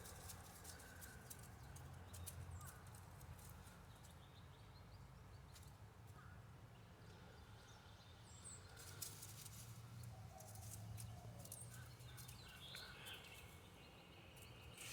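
Quiet outdoor ambience with a faint low hum, some small clicks and a few brief, faint bird chirps in the second half.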